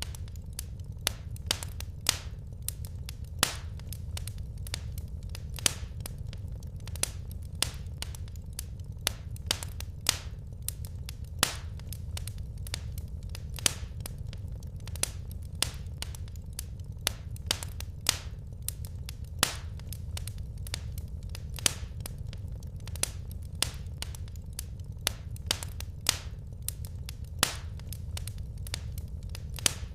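Wood fire crackling in a fireplace: irregular sharp snaps and pops, several a second with an occasional louder one, over a steady low rumble of the burning logs.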